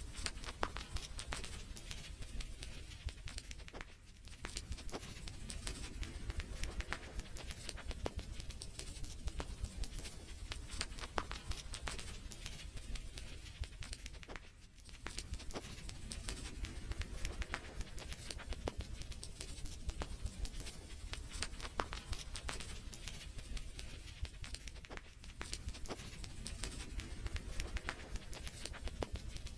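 Wood fire crackling, with many irregular sharp pops and snaps over a low steady rumble; it dips briefly quieter twice.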